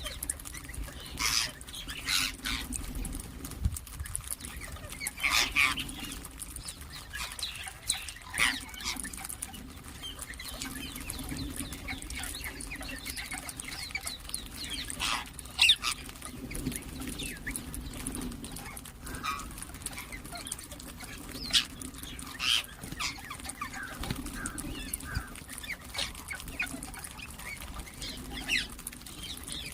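Birds giving short, sharp calls at irregular intervals, the loudest about 1.5, 5.5, 8.5, 15.5 and 22.5 seconds in, over a steady low hum.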